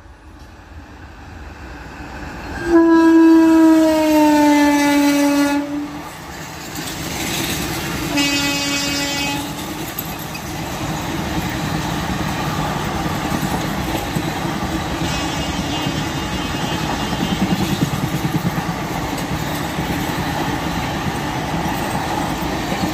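Indian Railways WAP-4 electric locomotive sounding its horn as it passes: one long blast that falls in pitch, then a shorter, lower blast a few seconds later. Then the steady rumble and clickety-clack of its passenger coaches running by.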